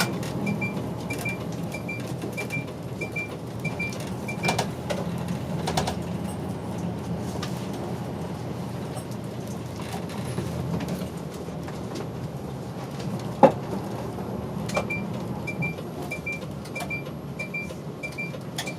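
Route bus interior: the engine hums low and steady while the turn-signal relay ticks about twice a second. The ticking stops about four seconds in and starts again near the end. A few knocks sound from the bus, with one loud sharp knock a little past the middle.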